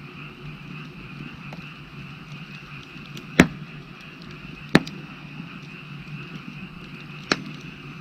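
Firewood burning, with three sharp, loud pops of the logs about three and a half, five and seven seconds in, over a steady background chorus of frogs.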